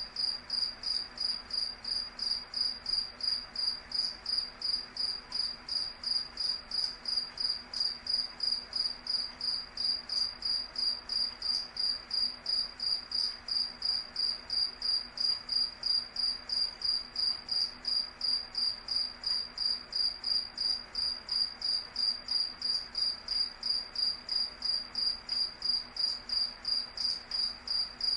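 A cricket chirping in a steady, even rhythm of rapid high-pitched chirps, every chirp on the same pitch.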